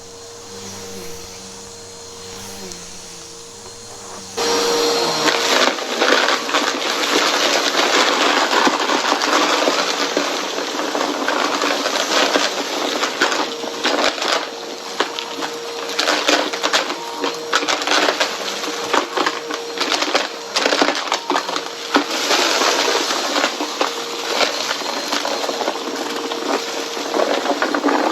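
Vacuum cleaner sucking up crunchy mess-test debris: a steady motor hum, then from about four seconds in a loud, dense crackling of grit and bits rattling through the brushroll that runs on with the vacuum.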